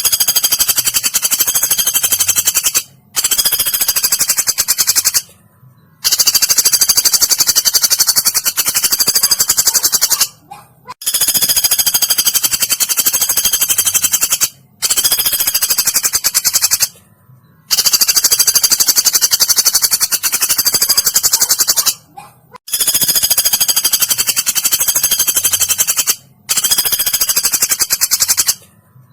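Woodpecker calls played as a training recording for songbirds: long, fast, high-pitched rattling trills, about eight of them, each lasting two to four seconds with brief pauses between.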